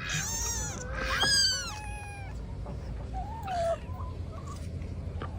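A cat meowing: two loud, drawn-out meows that fall in pitch in the first two seconds, then a fainter, shorter one a little after three seconds in.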